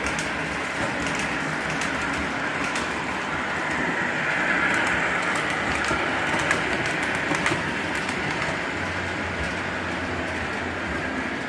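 O-gauge model train running along the track: a steady rolling rumble of wheels and motor, a little louder about halfway through, with scattered sharp clicks from the rails. A low hum joins in near the end.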